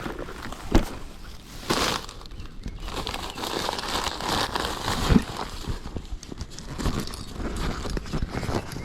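A few hollow knocks on the kayak, about three, amid rustling and crinkling as gear is handled.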